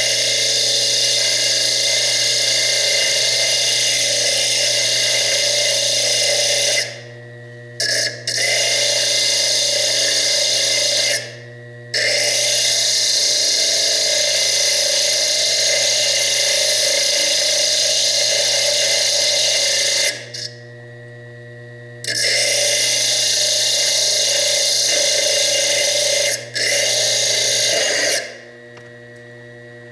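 Foredom bench lathe spinning a small slitting disc that cuts into fire agate, a loud high hiss with steady tones, in five runs of a few seconds each. Between runs a steady mains hum remains.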